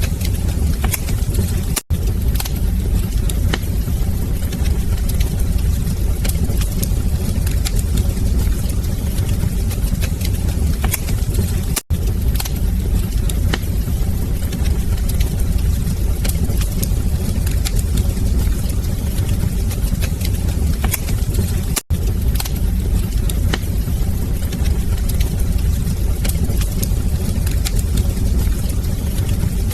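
Wood fire burning in a fireplace: a steady low rumble of flames with scattered sharp crackles and pops. The sound cuts out for an instant three times, about ten seconds apart.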